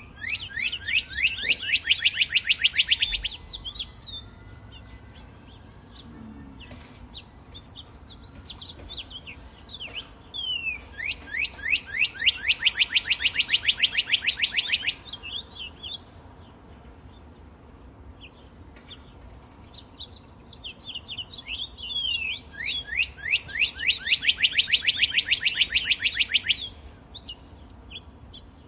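A songbird singing three long, rapid trills of quick falling notes, each lasting about four seconds, roughly eleven seconds apart, with scattered short chirps between them.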